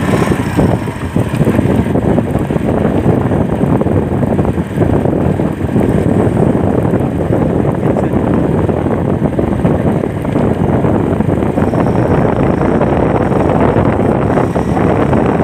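Heavy wind noise buffeting the phone's microphone over the steady rumble of a moving vehicle.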